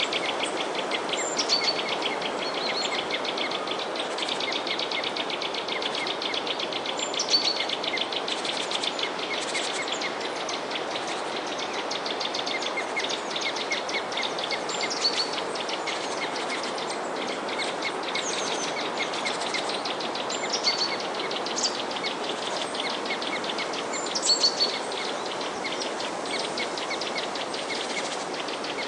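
Small birds chirping in short, high, falling calls over a continuous fast-pulsing insect chorus and a steady hiss.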